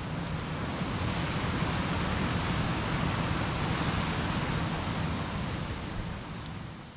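A steady rushing noise of outdoor ambience, like running water or wind, fading in at the start and out near the end, with a few faint high ticks.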